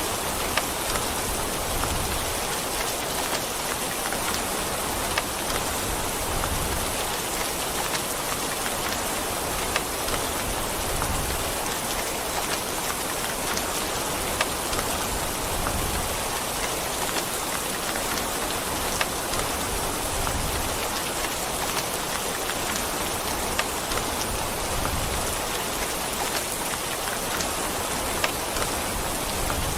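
Steady rain falling on a surface, a dense even hiss with scattered sharp drop ticks throughout.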